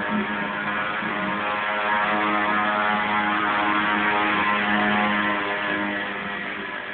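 Motocross motorcycle engine running at a steady speed, getting somewhat louder through the middle and easing off near the end.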